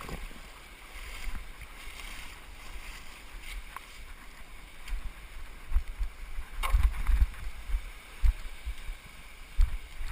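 Moving creek water with wind rumbling on the microphone, growing stronger in the second half, and a sharp knock about two-thirds of the way through.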